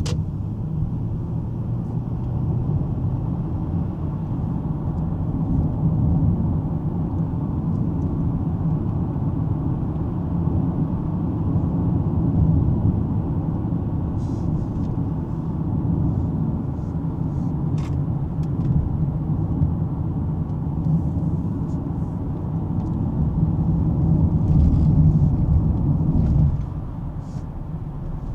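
Cabin noise of a 2005 Lexus ES330 on the move: a steady low rumble of road and engine noise. The rumble drops sharply in level near the end, as the car eases off.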